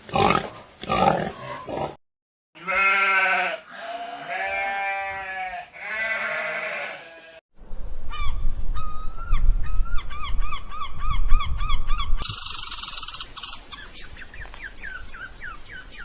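Animal calls in quick succession: a few short grunts, then three long, wavering goat bleats, then a run of short, repeated higher-pitched calls, and finally rapid clicking calls over a hiss.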